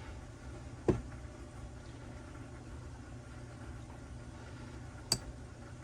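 Two short knocks, one about a second in and a fainter one about five seconds in, over a steady low hum.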